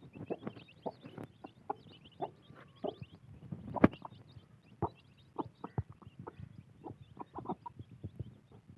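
Chickens: a hen clucking and chicks peeping, with many short, irregular taps and knocks and one sharp louder knock about four seconds in.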